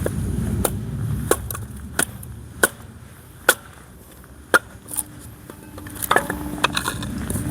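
A nadae-dogi hatchet striking wood again and again, splitting it into kindling: about ten sharp knocks, roughly every half second to a second.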